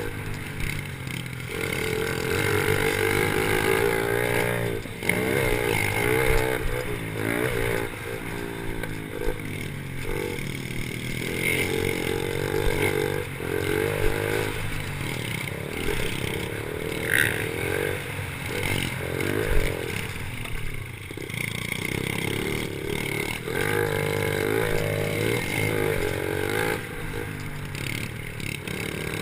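Pit bike engines revving up and down again and again through gear changes and corners, with a few sharp clattering knocks.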